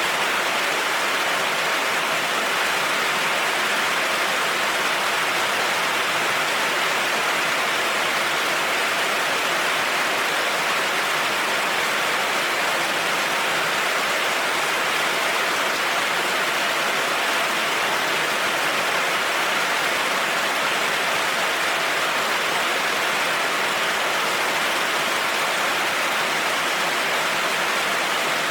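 Heavy rain falling steadily on a road: an even, unbroken hiss.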